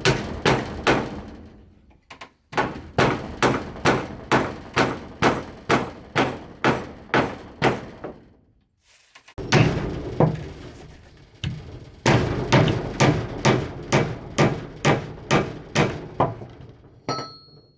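Steady, evenly spaced blows striking wood, about two to three a second, in three runs with two short pauses.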